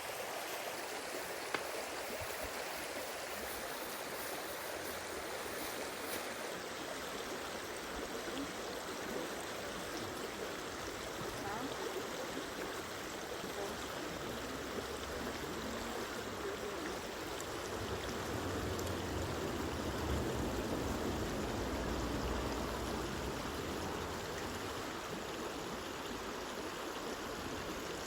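Steady sound of flowing water, like a stream, with a low rumble swelling for a few seconds about two-thirds of the way through.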